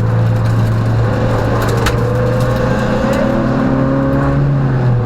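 Peugeot rally car's engine under load during a special stage, its note rising slowly as the revs climb, with an abrupt change in the note right at the end, likely a gear change.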